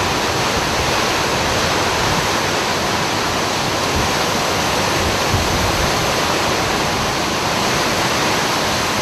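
Hurricane wind and rain blowing hard: a loud, steady, unbroken rush of noise.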